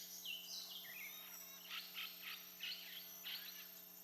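Faint wildlife ambience: a few short, stepping whistled notes in the first second, then a run of short, irregular chirping calls.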